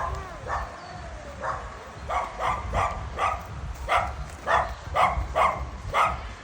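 Dog barking in a series of short, sharp barks, a few spaced out at first, then coming quickly at about two to three a second from about two seconds in.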